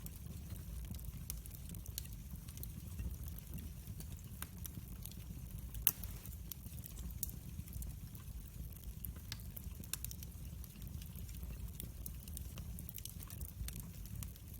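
Wood fire burning in a fireplace, crackling with irregular small snaps over a low rumble of the flames, and one louder pop near the middle.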